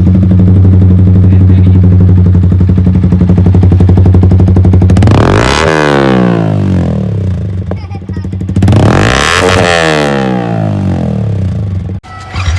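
Yamaha R15 BS6 motorcycle's single-cylinder engine idling through its exhaust, blipped twice, about five and nine seconds in, each rev rising quickly and falling back to idle.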